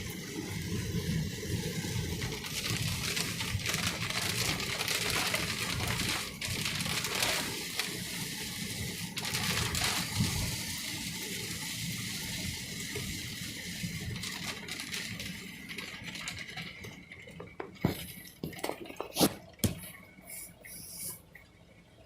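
Heavy rain falling on a car, heard from inside the cabin as a steady hiss. The rain noise fades over the last several seconds, where a few sharp clicks and knocks sound.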